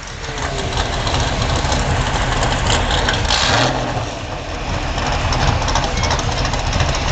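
Vehicle engine running loud and being revved; the level climbs over the first second and eases briefly about four seconds in.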